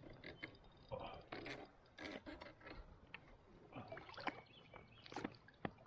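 Kayak on a river: short, irregular water splashes with scattered light knocks against the hull and gear.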